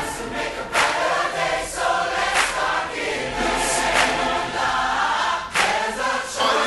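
Choir singing over a pop ballad backing track, with several drum hits along the way.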